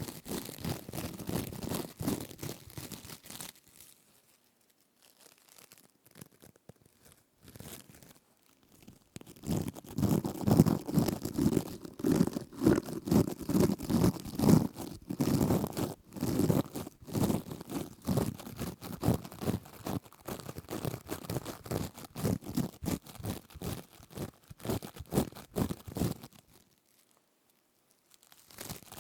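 Plastic mesh scourer rubbed and squeezed right at the microphone, giving dense, rapid crisp crinkling and scratching. There is a lull a few seconds in, the sound returns louder, and there is a brief pause near the end.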